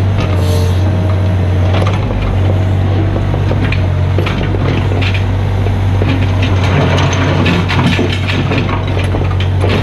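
Mini excavator's diesel engine running steadily while its bucket crunches and knocks through broken ground and rubble, with many irregular sharp impacts.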